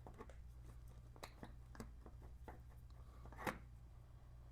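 Faint small clicks and taps of the Goldwing's rear brake fluid reservoir being opened by hand, with one sharper click about three and a half seconds in, over a low steady hum.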